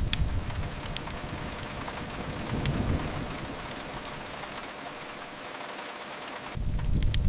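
Steady rain hiss mixed with sharp, scattered crackles from a wood fire in a fireplace. Underneath, a low rumble fades within the first second, swells briefly in the middle and comes back louder near the end.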